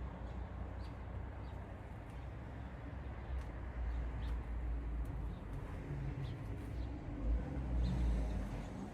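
A few short, high bird chirps scattered over an uneven low rumble.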